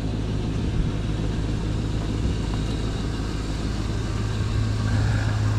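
A motor vehicle engine idling steadily with a low, even hum that grows slightly stronger near the end.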